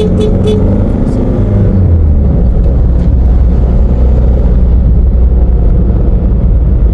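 Car engine and road noise while driving: a steady low rumble, with the engine note shifting slightly in the first two seconds.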